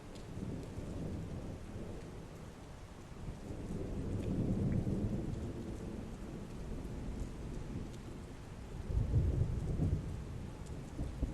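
Heavy rain falling steadily with rolling thunder: a low rumble swells about four seconds in, and a stronger one comes around nine seconds in.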